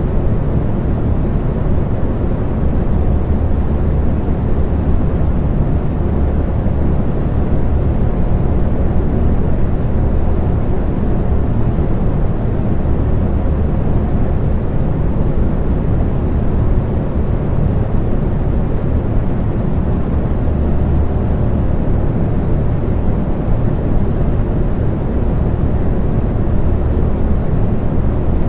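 Electric fan running steadily: a deep, even whooshing rumble with a low hum and a faint motor tone, no change in speed.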